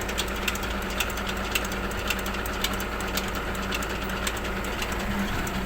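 Glass-collection truck's diesel engine running steadily in neutral, with a steady low hum and many faint, uneven clicks.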